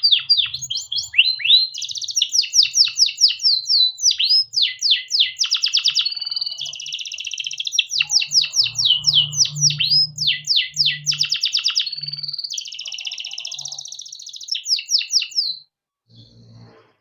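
Domestic canary singing a long, continuous song of fast repeated chirps and buzzing rolled trills, switching between phrases every second or two. The song stops abruptly about a second and a half before the end.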